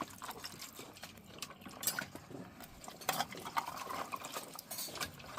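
Utensils stirring and scooping soupy ramen in a pot, with scattered light clicks and liquid sounds.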